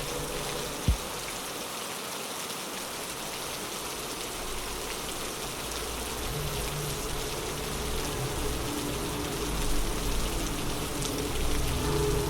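Steady rain falling, an even hiss of drops, with a single sharp knock about a second in. A low rumble builds underneath in the second half.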